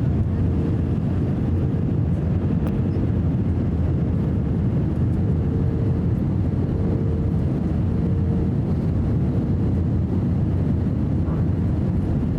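Steady airliner cabin noise during the descent to land: the low rumble of the engines and airflow heard from inside the cabin, with a faint steady hum above it.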